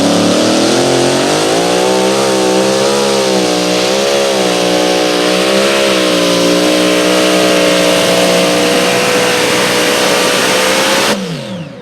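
Competition pulling engine running flat out at high revs under load during a pull, its pitch wavering up and down, then holding steady, before it cuts off abruptly near the end.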